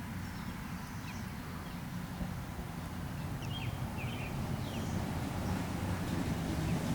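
Short, high bird chirps every second or so over a low, steady rumble that grows louder near the end.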